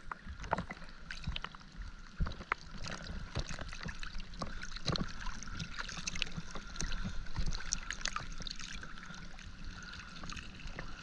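Water sloshing and splashing around a diver at the surface beside a dive boat, with scattered small clicks and knocks over a steady low hum.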